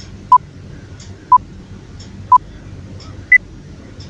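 Countdown timer beeps: three short beeps a second apart, then a fourth, higher-pitched beep that marks the end of the countdown.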